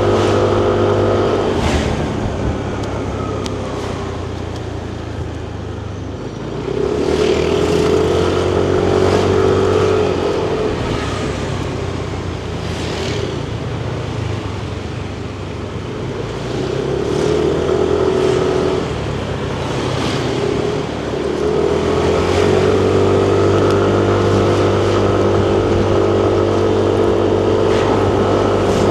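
Yamaha Nmax 155 scooter's single-cylinder engine heard from the rider's seat, pulling under throttle, easing off around 2 s and again through the middle, then picking up several times and holding a steady drone through the last several seconds, over continuous road and wind noise.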